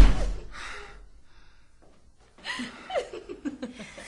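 A heavy thud at the start that fades out over about a second, then after a brief quiet, breathy chuckling and gasping from a person.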